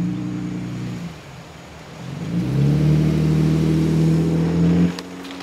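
Car engine revving: its pitch rises about two seconds in, then it runs high and steady before cutting off suddenly near the end.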